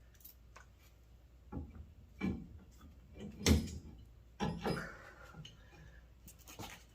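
Irregular knocks and clunks of hand tools and metal parts being handled during brake work, about six in all, the loudest about three and a half seconds in.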